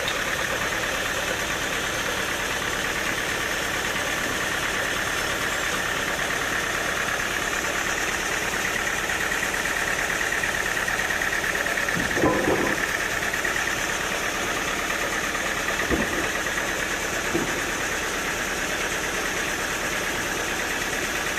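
Sawmill machinery running steadily with a constant hum, broken by a few short knocks about twelve, sixteen and seventeen seconds in.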